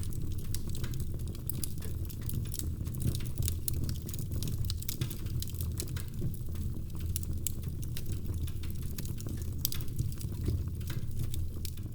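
Wood fire crackling in a fireplace: a steady low rumble of burning with many small pops and snaps scattered throughout.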